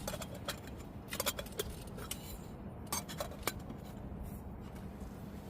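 A series of short, sharp clicks and clinks of small hard objects set or tapped down, irregularly spaced and bunched in two clusters, over a steady low hum.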